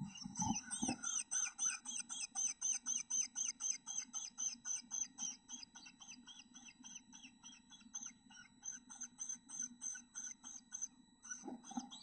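Black-capped chickadee nestlings begging as a parent comes to the nest: a rapid, steady run of high chirps, about four to five a second, a little weaker in the middle. Soft knocks from the bird moving in the nest box come at the start and again near the end.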